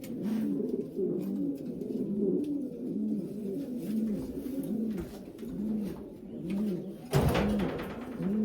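Several racing pigeons cooing in the loft, their low arching coos overlapping and repeating about twice a second. A short, louder noisy burst comes near the end.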